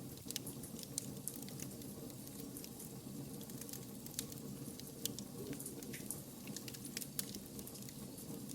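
Wood fire crackling: irregular sharp pops and snaps over a steady low rushing of the flames.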